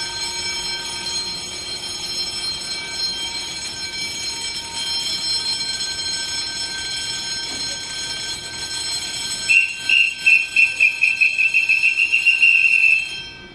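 A Puyuma express (TEMU2000 electric multiple unit) stands at the platform, its electrical equipment giving a steady whine made of several high tones. About nine and a half seconds in, a loud, rapid high beeping starts and quickens for a few seconds: a warning signal as departure nears, then it all cuts off abruptly.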